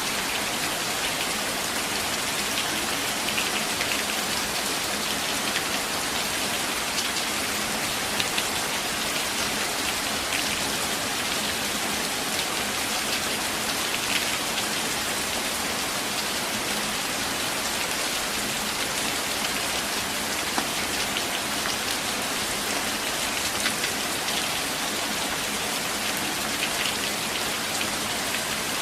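Steady rain falling on forest foliage, an even hiss of many drops with a few sharper drop hits now and then.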